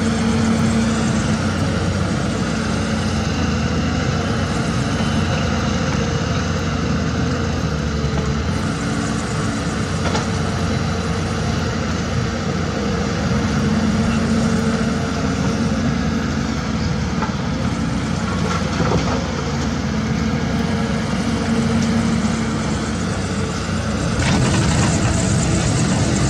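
Diesel engines of heavy construction machinery, such as an excavator, dump truck or bulldozer, running steadily under changing load, growing louder near the end.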